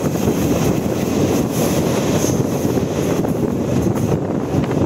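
Steady rush and rumble of an express train running at speed, heard from an open coach door, with wind buffeting the microphone.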